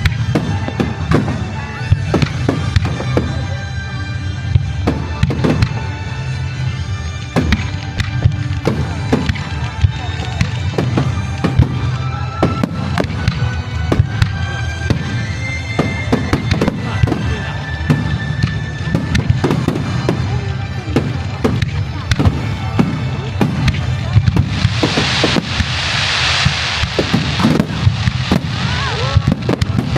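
Kagiya aerial firework shells bursting in rapid succession, with booming bangs over a continuous low rumble and music playing along. About twenty-five seconds in, a loud hissing rush swells for a few seconds.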